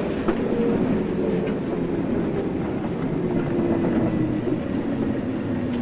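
Running sound inside a JR East 113 series electric train: a steady hum from the motors and gearing, with its pitch sinking slightly, over rolling noise and a few rail-joint clicks.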